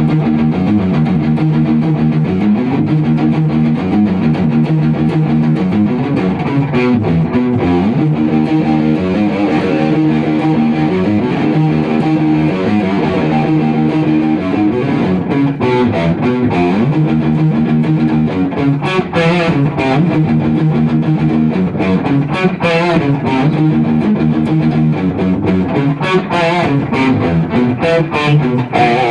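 Electric guitar music: a riff of plucked notes repeated over and over at a steady loudness.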